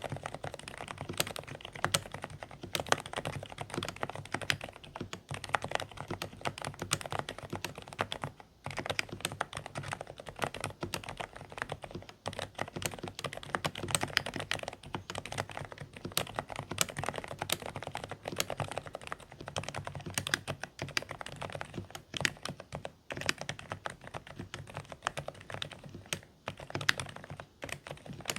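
Fast, continuous typing on a Dareu A104 Pro mechanical keyboard with silent beige switches: quiet, slightly muffled keystrokes, with a few brief pauses.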